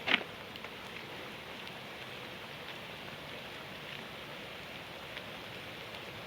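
Steady rain falling, an even hiss, with one short loud sound right at the start.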